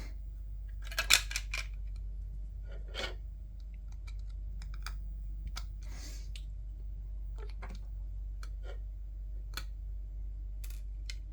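Scattered small clicks and taps of plastic headset parts being handled and pulled apart, with a loud cluster of clicks about a second in and a brief scrape midway, over a steady low hum.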